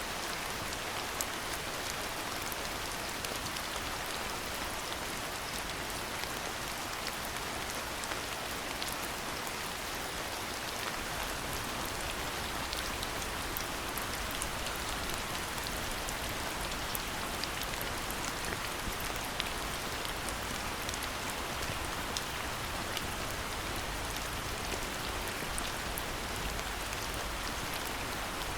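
Steady rain falling: a dense, even hiss flecked with many small drop ticks.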